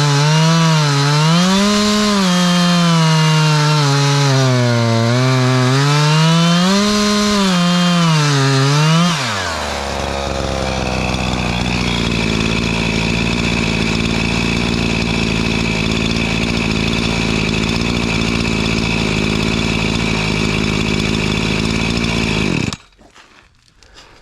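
Husqvarna 345 two-stroke chainsaw after its rebuild and carburettor tuning, running at high revs with the pitch swinging up and down. About nine seconds in it drops to a steady idle, then is switched off near the end.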